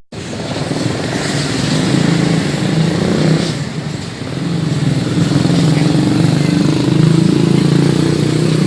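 Yamaha Scorpio Z single-cylinder four-stroke motorcycle engine running loud through an HNR racing exhaust, set up for drag racing. Its level dips briefly about four seconds in, then holds steady again.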